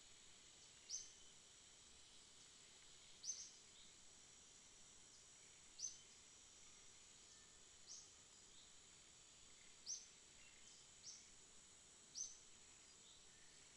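Night ambience: a faint, steady high-pitched insect chorus, with a short, sharp high chirp repeating about every two seconds.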